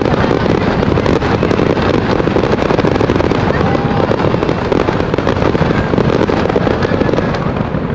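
Fireworks going off in a rapid, continuous barrage: booming bursts overlapping with dense crackling, with no gap.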